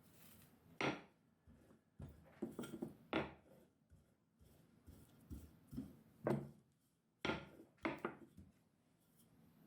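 Kitchenware being handled on a counter: several short, sharp knocks and clatters in irregular groups, the loudest about a second in, around six seconds in, and near the end.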